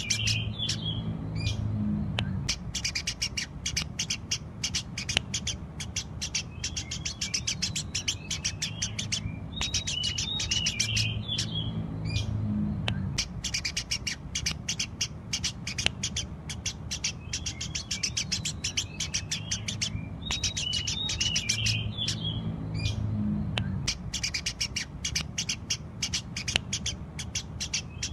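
Eurasian tree sparrow chirping in quick runs of short, sharp chirps, several a second, broken by brief pauses, over a steady low hum.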